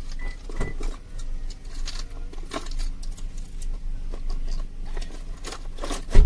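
Fishing lures being handled and sorted in a lure box: scattered clicks and clacks of hard lures and hooks, with one loud knock near the end.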